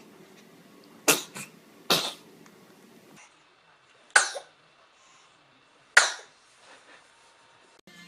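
Babies sneezing: four short, sharp sneezes spread over several seconds.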